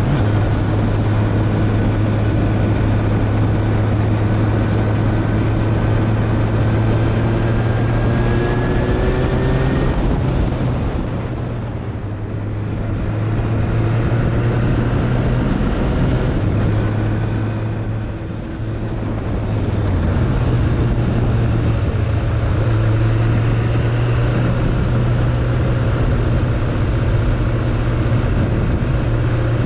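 Suzuki Bandit 1200 inline-four engine running under way, with rushing wind and road noise. The engine note climbs steadily for several seconds, then the sound eases off briefly twice before picking up again.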